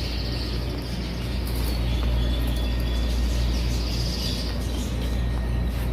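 Caged pet-shop birds chirping faintly over a steady low hum.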